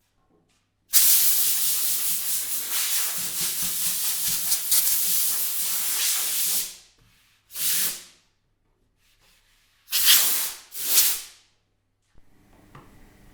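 Spray painting hiss: one long burst of about six seconds, then three short bursts.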